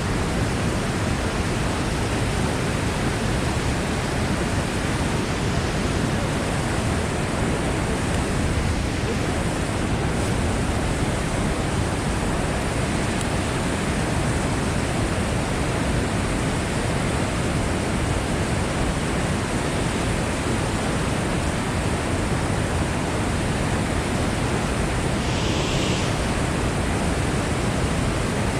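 Steady rushing of white water pouring from a dam's floodgates into the river below, an unbroken noise without pauses.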